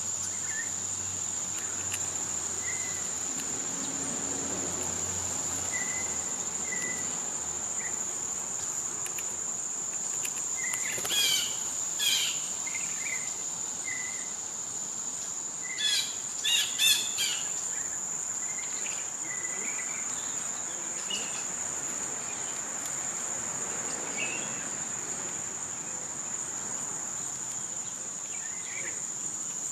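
Steady high-pitched insect chorus, with scattered faint bird chirps throughout and two brief clusters of louder bird calls around the middle.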